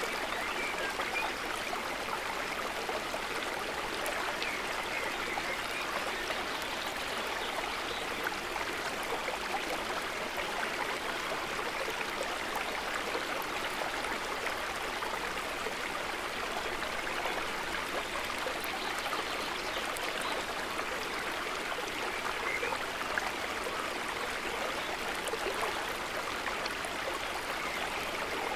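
A river running steadily: an even rush of flowing water with fine trickling and splashing detail.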